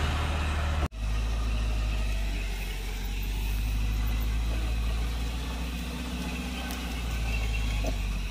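Off-road 4x4's engine running steadily with a deep, even rumble. It cuts out for an instant about a second in.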